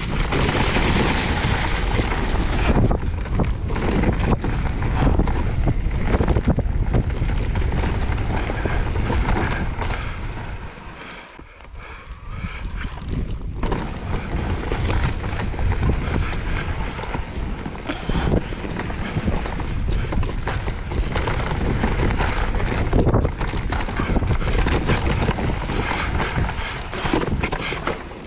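Wind rushing over the microphone and tyres rolling and rattling over a dirt trail as an e-mountain bike is ridden fast, easing off briefly about eleven seconds in.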